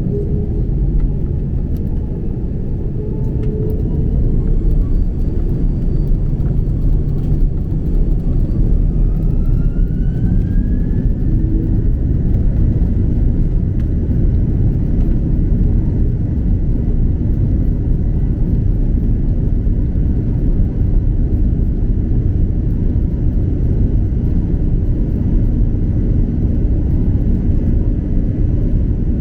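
Airbus A330-200 cabin noise with the jet engines running: a steady low rumble that grows louder a few seconds in, and a whine that rises about ten seconds in and then holds steady.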